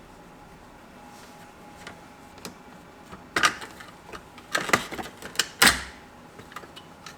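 Irregular sharp clicks and metallic knocks from hand tools and car parts being handled during restoration work, clustering in a quick flurry in the second half, with the loudest knock near the end of it.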